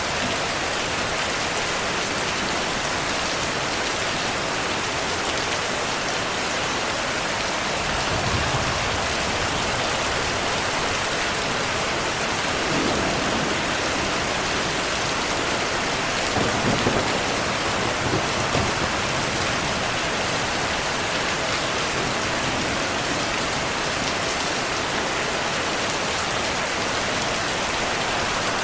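Steady heavy rainfall hissing on surfaces, with low thunder rumbles rolling under it: a soft one about eight seconds in and a stronger one a little past the middle.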